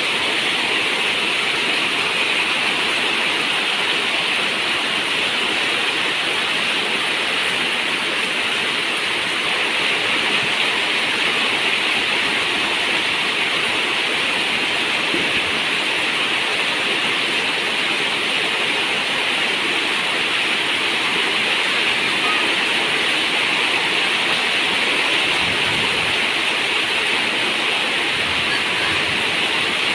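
Steady heavy rain on a zinc roof: a continuous, even hiss of falling water with no breaks.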